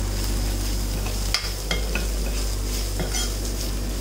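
Sliced onions and spice powders sizzling in hot oil while a steel spoon stirs them around a pot, with several sharp clinks and scrapes of the spoon against the pot.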